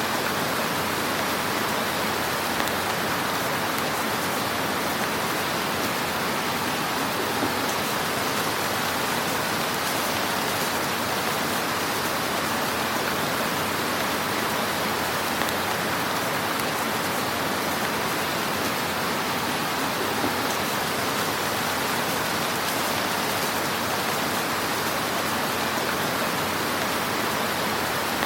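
Wood fire in a fireplace crackling: a dense, steady hiss of small crackles with a few slightly louder pops.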